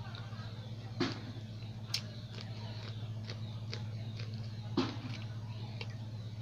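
Close-up mouth sounds of a person eating chicken curry with porota: wet chewing clicks and smacks, two of them louder, about a second in and near the five-second mark. A steady low hum runs underneath.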